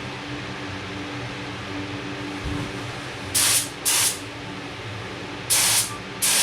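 Paint spray gun loaded with epoxy primer, triggered in short test bursts with the fan pattern wide open: four brief hissing blasts in the second half, over a steady low hum.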